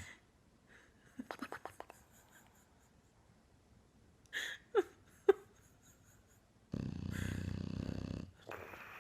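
Bulldog snoring in its sleep: a quick rattling snort about a second in, two or three short snorts with falling pitch near the middle, then one long, loud snore near the end.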